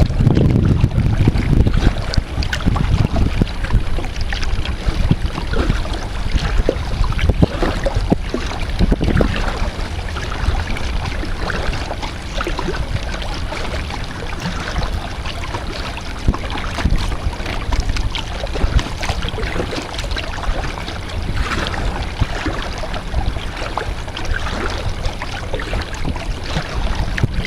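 Kayak paddling on open water: paddle blades dipping and splashing, with wind buffeting the microphone, heaviest in the first couple of seconds.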